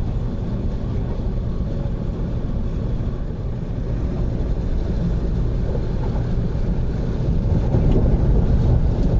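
Steady running noise of an MTR train in motion, heard from inside the carriage: a low rumble that grows a little louder near the end.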